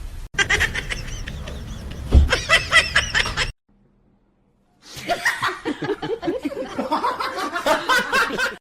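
People laughing in quick rhythmic bursts. The laughter stops suddenly about three and a half seconds in, and after a short silence a second stretch of laughter starts.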